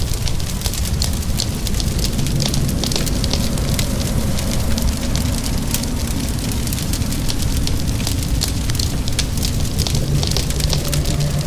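Fireplace crackling, with many sharp pops and snaps over a steady low rumble, and a rain hiss underneath.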